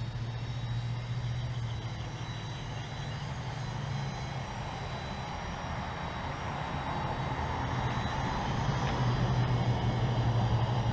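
Battery-electric Syma F1 Armor RC helicopter in flight: its main rotor gives a steady low hum under a thin, steady high whine from the motor and drive. It grows louder over the last few seconds.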